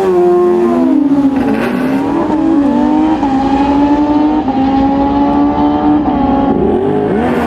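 A race engine running at high revs. Its pitch jumps up sharply at the start, then holds high with small rises and dips, with several quick throttle blips near the end.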